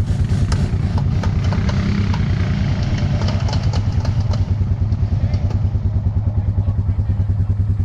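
ATV engine idling with a steady, even pulsing beat, with light knocks and clatter during the first half.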